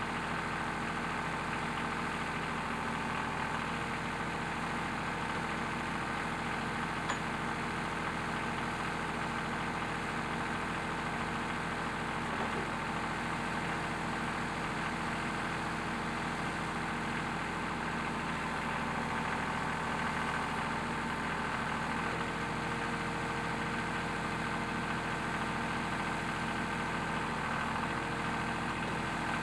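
Tractor engine running steadily at idle, its even drone unchanging, with one faint click about seven seconds in.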